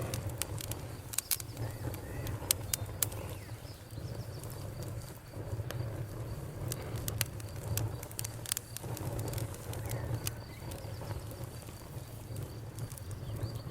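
Wood campfire crackling, with scattered sharp pops over a steady low rumble. A faint, steady, high cricket chirping runs underneath.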